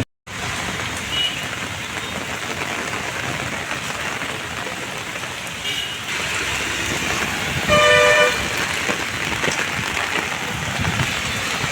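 Heavy rain falling steadily on a city street, a constant hiss. A vehicle horn sounds once, briefly, about eight seconds in.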